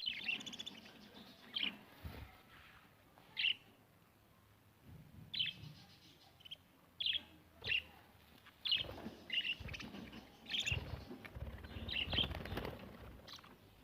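Budgerigars chirping: a dozen or so short, sharp high calls scattered through, with a low, noisy rumble underneath in the second half.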